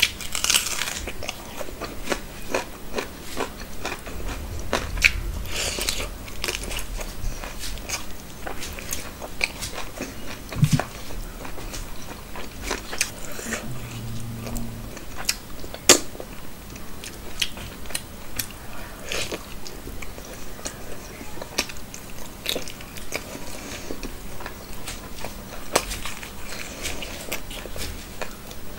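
Close-miked eating: a person chewing and biting mouthfuls of rice and meat curry eaten by hand, a continuous run of irregular short clicks and wet mouth sounds.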